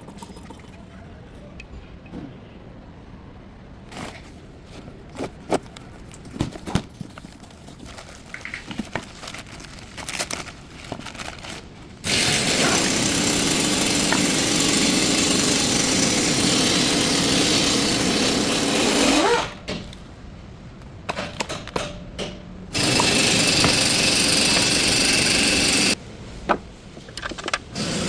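Tools clinking and knocking against metal, then a power tool running in two long stretches, the first about seven seconds and the second about three, as the engine mount bolts are worked on.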